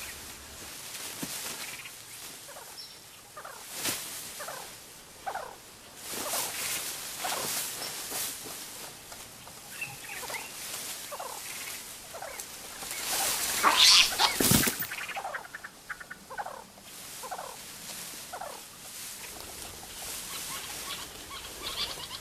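Olive baboons fighting: a string of short screams and barks with rustling and cracks among branches. The loudest part is a burst of noise about two-thirds of the way through.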